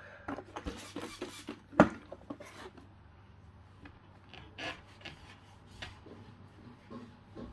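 Rag with alcohol being rubbed over a bicycle's hydraulic disc-brake rotor in irregular wiping strokes, with one sharp knock a little under two seconds in. The rotor is being degreased to stop the brake squealing.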